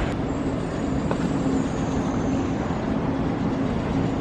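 Steady vehicle running noise: a constant low hum over an even rumble, with a faint high whine.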